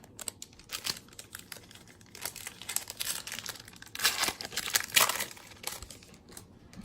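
Crinkling and rustling of a baseball card pack wrapper as cards are handled, with louder crackly bursts about four and five seconds in.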